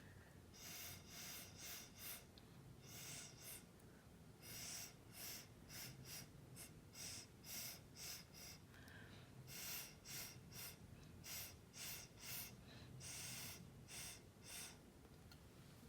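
Faint, short puffs of breath blown onto wet acrylic pour paint to push it into petal shapes: dozens of quick airy puffs in clusters of two to four, with brief pauses between clusters.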